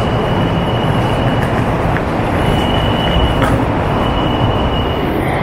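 MARTA heavy-rail train rumbling along the track with a thin, high wheel squeal that comes and goes, and a few sharp clicks.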